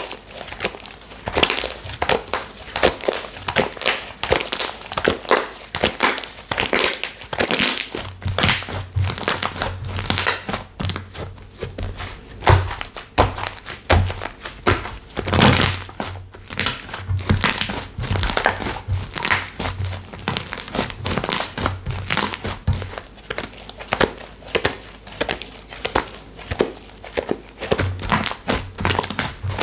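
Textured slime being squeezed and kneaded by hand, giving a dense, continuous run of crinkly crackles and sticky clicks with occasional duller thunks.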